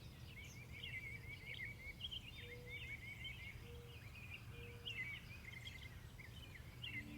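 Small birds chirping and trilling rapidly over a low steady hum. A low held music tone sets in at the very end.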